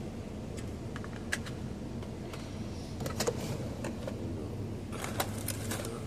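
Scattered light clicks and clatters of small hard objects being handled, over a steady low hum.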